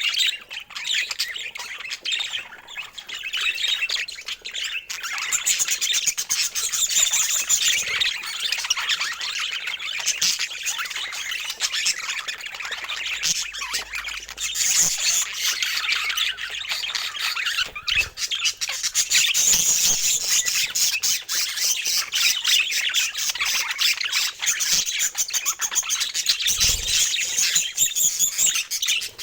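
Budgerigars calling: a dense, continuous chatter of rapid high chirps and warbles.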